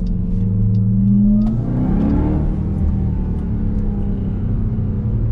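Dodge Durango SRT Hellcat's supercharged 6.2-litre V8 running under way, heard from inside the cabin. It drones steadily, rises in pitch for about a second, then settles back to a steady drone.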